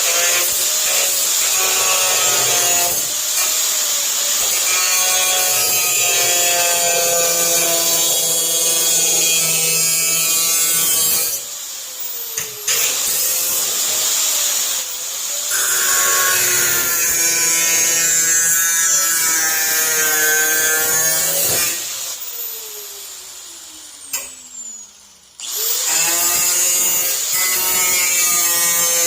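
Electric cut-off wheel spinning at high speed and cutting into the sheet steel of a 1962 Chevrolet Impala hood, trimming jutting factory metal pieces even. It runs in three long cuts. Twice, about a third and about three-quarters of the way in, it is let off and winds down with a falling whine before starting up again.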